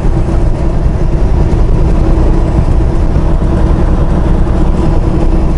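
Semi truck's diesel engine droning steadily with road rumble, heard from inside the cab while driving.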